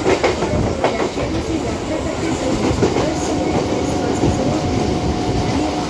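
Train running along the track, a continuous rumble with the wheels clattering over rail joints. A thin steady whine comes in about three seconds in and stops shortly before the end.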